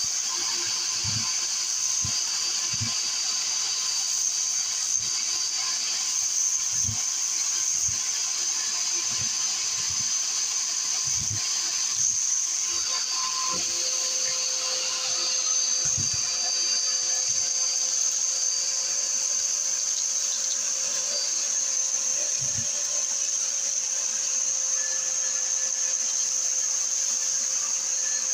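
Vacuum cleaner running with a steady high-pitched motor whine and a sizzling crackle of debris being sucked up, with scattered soft low thumps.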